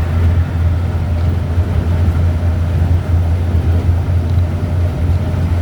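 Strong wind buffeting the microphone: a continuous low rumble that swells and eases a little.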